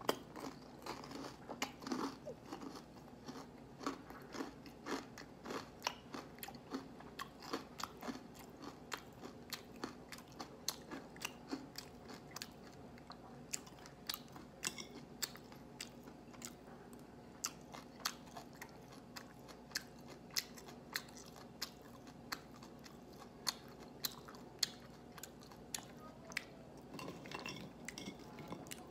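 Chewing crispy deep-fried pork tenders: a continuous run of sharp crunches, two or three a second.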